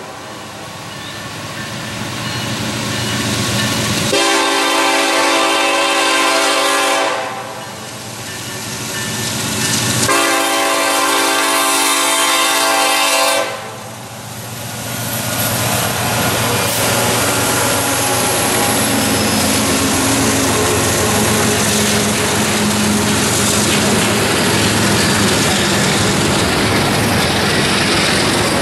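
Norfolk Southern freight locomotive's multi-chime air horn blowing two long blasts for a grade crossing as the train approaches, the rumble growing louder. About halfway through, the locomotives and double-stack container cars pass close by in a steady rumble with clickety-clack from the wheels.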